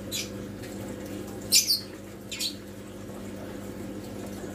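Three short, high chirps from a small bird, the loudest about a second and a half in, over the steady low hum and faint water trickle of an aquarium's filter pump.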